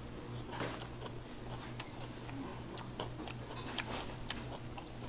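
Close-up eating sounds: a mouthful of seasoned raw cutlassfish salad being chewed, with many scattered short clicks and smacks over a steady low hum.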